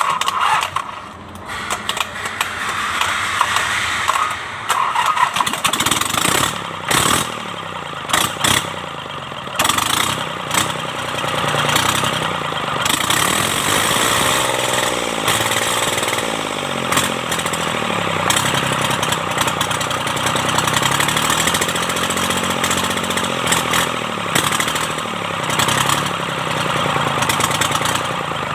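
Mitsubishi K3E three-cylinder diesel engine of an MT18 tractor starting and running unevenly with short breaks at first, then running steadily. Its speed rises and falls a couple of times. The engine has been rebuilt with new pistons and rings.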